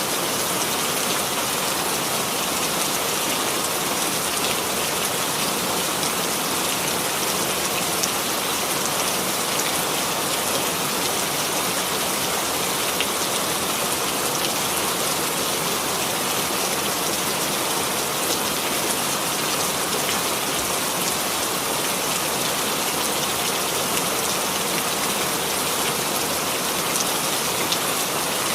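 Steady rainfall, an even dense hiss of rain on a surface with faint scattered drop patter.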